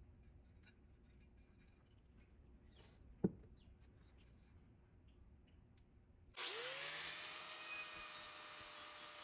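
Light scratching and tapping, with one sharp knock about three seconds in. About six seconds in a power tool switches on: its motor spins up quickly to a steady whine under a loud, even hiss.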